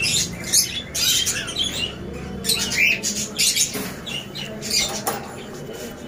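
Cage birds chirping and squawking in many short, irregular high-pitched calls.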